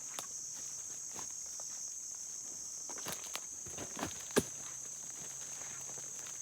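A steady high-pitched insect chorus, with scattered light clicks and snaps like footsteps on twigs and leaves, one sharper snap about two-thirds of the way through.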